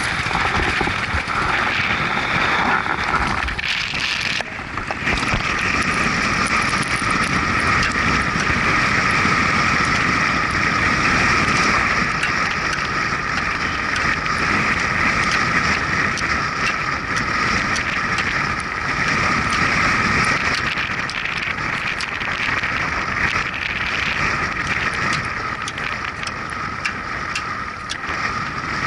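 Motorcycle ride: steady engine and road noise with wind on the microphone, dipping briefly about four seconds in.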